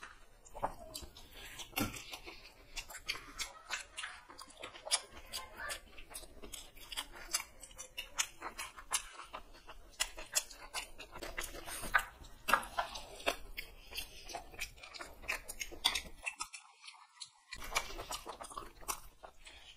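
Two people chewing and biting as they eat fried chicken legs and chowmein by hand, with many small irregular mouth clicks and crunches.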